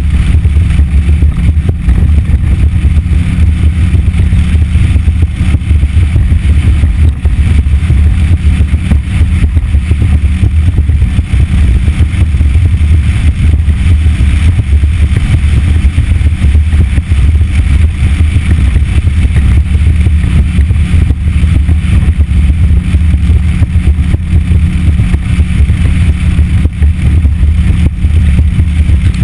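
Yamaha F60 four-stroke outboard motor running steadily with the boat under way: a loud, even low drone with a steady hiss over it.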